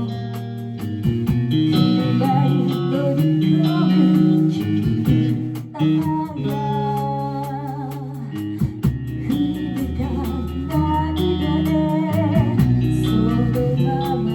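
Live band playing a song: guitar and bass over a steady beat, with a singing voice.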